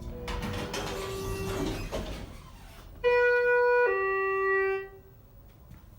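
Elevator arrival chime sounding two notes, a higher one then a lower one, each held about a second; the high-low pair marks a car arriving while travelling down. It follows a couple of seconds of low running noise from the moving car.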